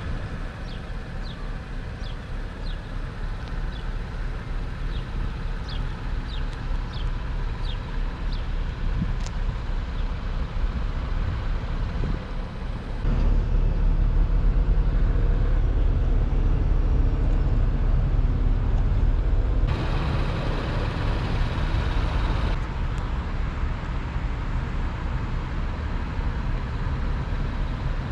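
Car running with steady engine and road noise, with light repeated ticking during the first nine seconds. About thirteen seconds in, the low rumble becomes louder and deeper and stays that way.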